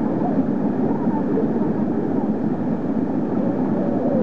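Waterfall pouring with a steady rushing noise.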